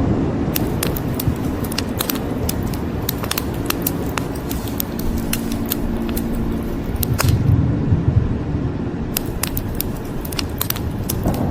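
Wood fire crackling with frequent sharp pops and snaps over a steady hiss of rain, and a brief low rumble of thunder about seven seconds in.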